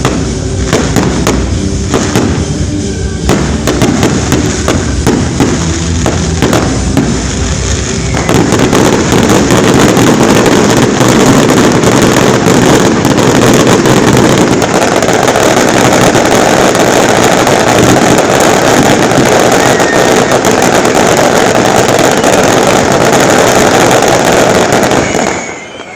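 Fireworks: a run of separate bangs, then from about eight seconds in a dense, continuous barrage of crackling and explosions that stops abruptly near the end.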